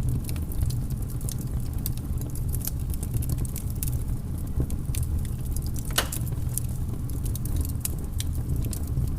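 Wood fire burning in a fireplace, crackling with irregular sharp pops over a steady low rumble; one louder pop about six seconds in.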